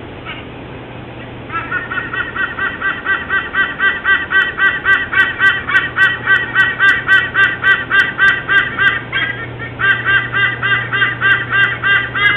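Rapid, evenly repeated bird calls, about four or five a second, starting about a second and a half in and breaking off briefly near the middle.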